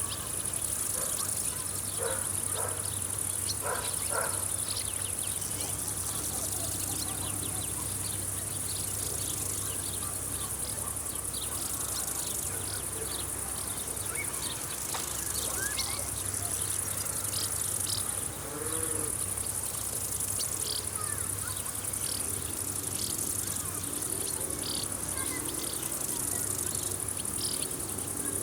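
Summer field ambience: insects chirring in a steady, high-pitched drone, with scattered short chirps and calls over it and a faint low hum underneath.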